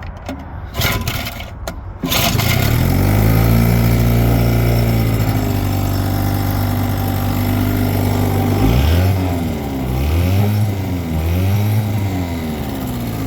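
1960 Johnson 5.5 hp two-stroke outboard being pull-started, restarting after being choked off. It catches about two seconds in and runs steadily, then near the end it is revved up and down several times.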